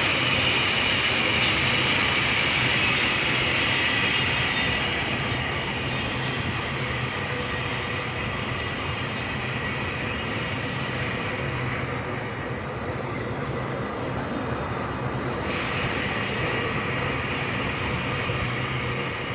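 Double-stack container freight train rolling past: a steady rumble and hiss of wagon wheels on the rails, easing a little about four seconds in.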